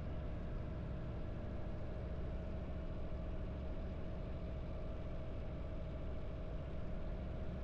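Harley-Davidson V-twin motorcycle engine running steadily under way, holding an even speed with no revving up or down.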